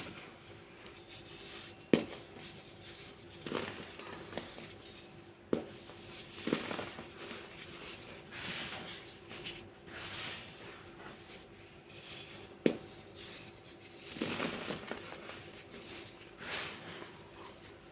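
Hardened baking soda chunks being crushed and crumbled: irregular crunching and crackling, with three sharp snaps as pieces break, over a faint steady hum.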